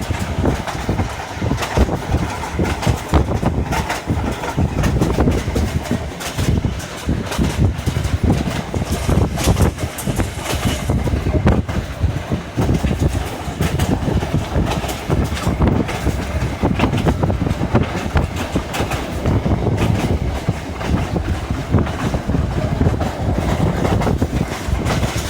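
Passenger train running on the rails, a steady rumble broken by many irregular knocks and rattles from the wheels and carriage.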